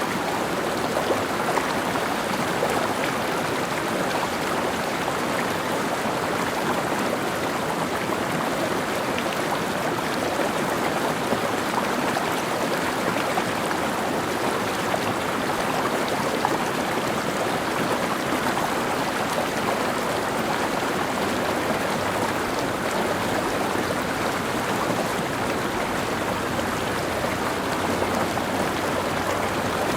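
Mountain stream running steadily over rocks, a constant dense rush of splashing and babbling water.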